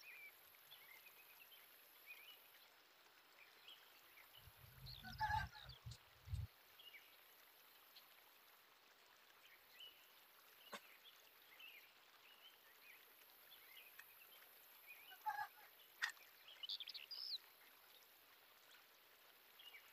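Near silence with faint, scattered bird chirps, short high calls every second or two, louder in two clusters about five and fifteen seconds in. A brief low rumble comes about five seconds in.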